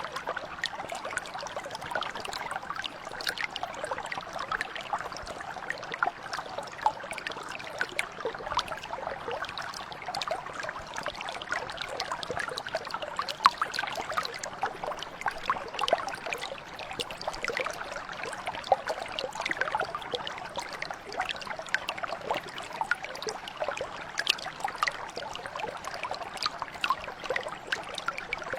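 A shallow brook flowing steadily over stones: a continuous babble of many small trickles, splashes and bubbling plinks.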